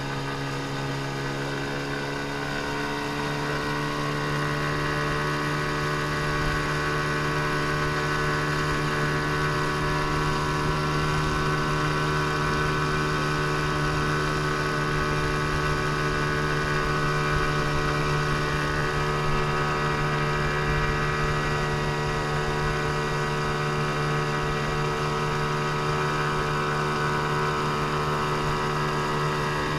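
15 hp outboard motor running steadily under way, its note rising a little a few seconds in.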